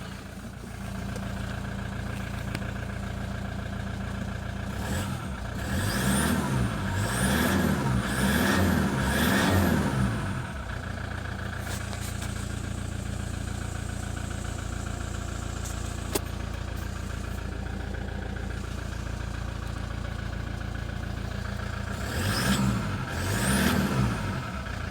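Toyota Hilux 3.0-litre engine idling steadily. About five seconds in it is revved up and let back down four times in a row, then settles to idle again. Near the end come two more quick revs, and there is one short click midway.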